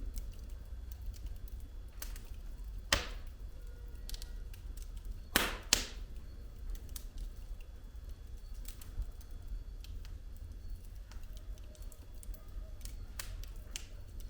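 Firewood burning in a fireplace, crackling with scattered sharp pops: a loud crack about three seconds in and two loud cracks in quick succession about five and a half seconds in, over a low steady rumble.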